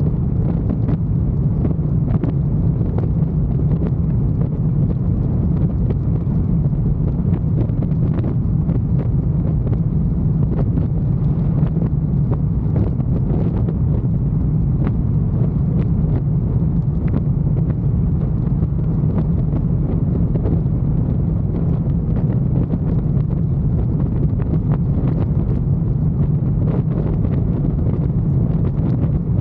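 Motorcycle riding at a steady speed, its engine giving an even low drone under wind rushing and buffeting the microphone.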